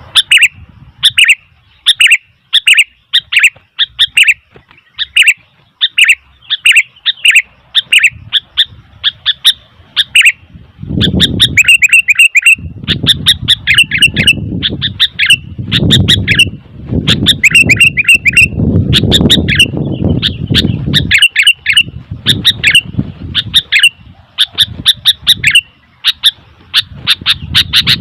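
Sooty-headed bulbul giving loud, sharp, repeated call notes in quick runs of several a second. From about a third of the way in, a low rumble comes and goes beneath the calls.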